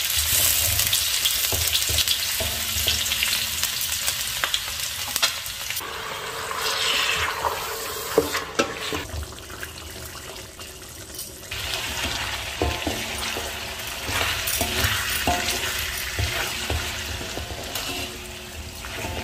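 Shallots and then mutton masala sizzling in a metal wok, stirred and scraped with a wooden spatula. The sizzle is quieter for a few seconds midway.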